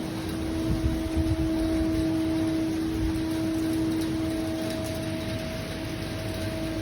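Steady hiss of rain, with an uneven low rumble and a constant low hum underneath.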